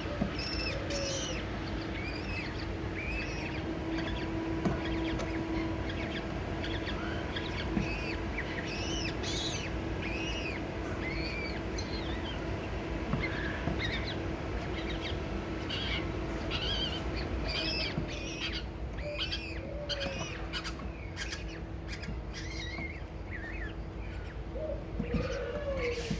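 Small birds chirping in short, repeated arched calls, with many calls overlapping, over a steady low hum.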